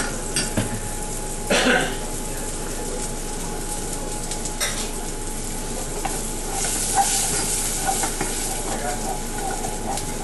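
Onion, garlic, chili and ginger sizzling in oil in a pot as a spoon stirs them, with a few sharp knocks of the spoon against the pot in the first two seconds and a busier stretch of stirring and scraping in the second half.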